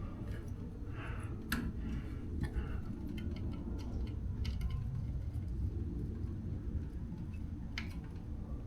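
A few sharp clicks and light taps from small screws and a screwdriver being handled, two of them more distinct, over a steady low hum.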